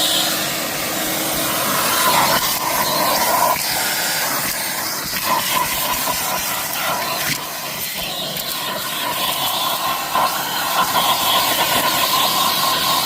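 Vacuum cleaner running steadily on a car's interior, a hissing rush of air with a faint whine that comes and goes.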